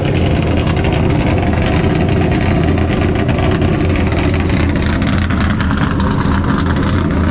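A big American V8 race-car engine running at a steady idle, a deep, even rumble, getting a little duller about five seconds in.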